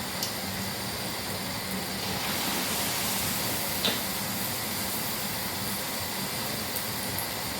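Puff-puff dough balls deep-frying in hot oil: a steady sizzle, with a few small clicks or pops, the loudest about four seconds in.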